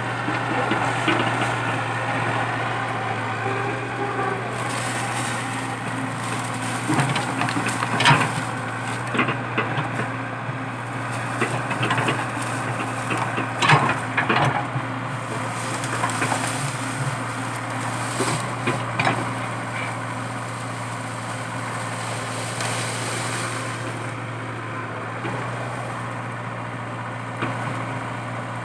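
Komatsu PC80 excavator's diesel engine running steadily under load, with a string of sharp cracks and snaps of wood as eucalyptus stumps and roots are broken out, mostly through the middle stretch.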